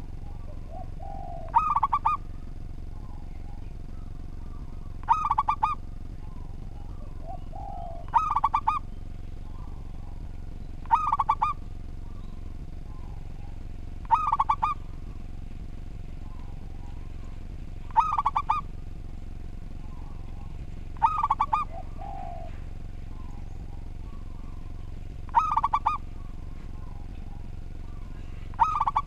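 Zebra dove (perkutut) cooing: a short phrase of a few quick notes, repeated about every three seconds, over a steady faint background hum.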